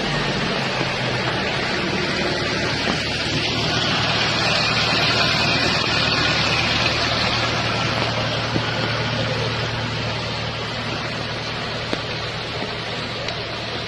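A jeep's engine running steadily as it drives through floodwater, under a dense rushing hiss.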